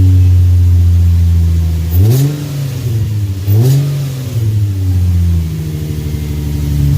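2005 Infiniti G35x's 3.5-litre V6 running just after start-up, blipped twice briefly about two and three and a half seconds in, then settling to a steady lower idle. The exhaust is sealed on a new Y-pipe and gaskets, with no exhaust leak.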